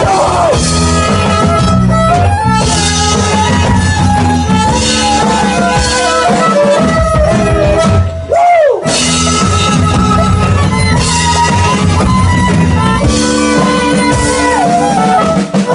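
Rock band playing an instrumental break between sung verses: a guitar melody over bass and drums. About halfway through the band drops out briefly while one note swoops up and back down, then the full band comes back in.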